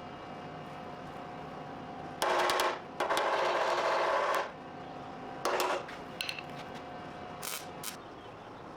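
A power tool working on steel in three short bursts, the middle one the longest, followed by a few faint clicks.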